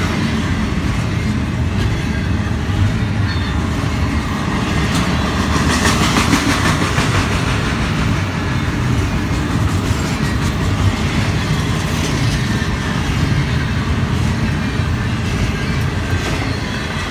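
Double-stack container train's well cars rolling past: a steady, loud rumble of steel wheels on rail, with a sharper stretch of clicking and clatter about six to eight seconds in.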